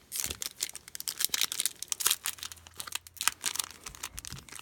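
Trading card pack wrapper being crinkled and torn open by hand: irregular crackling and tearing throughout.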